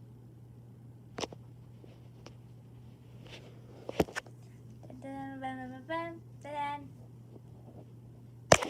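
A child's voice humming a short run of held notes about five seconds in, with a few sharp clicks before and after.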